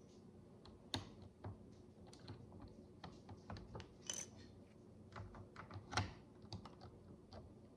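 Micro building bricks being handled and pressed together: a run of irregular small plastic clicks and taps, with the sharpest snaps about a second in and near six seconds.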